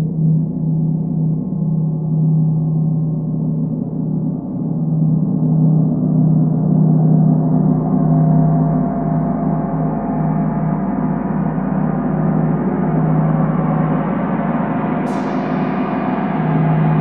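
Gong played in a sound bath: a steady deep hum under a wash of overtones that swells and grows brighter, with one bright high strike near the end that rings away.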